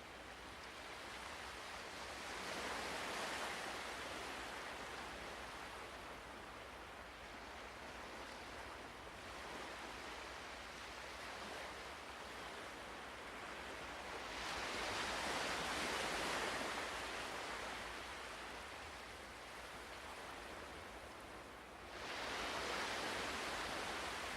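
Ocean waves washing on a shore, a steady rush of surf that swells and fades as the waves come in. It builds three times: a few seconds in, around the middle, and abruptly near the end.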